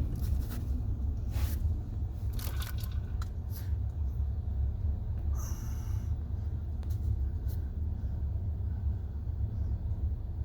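Low steady rumble of a car rolling slowly, heard from inside the cabin, with a few small clicks and rustles and a short hiss about halfway through.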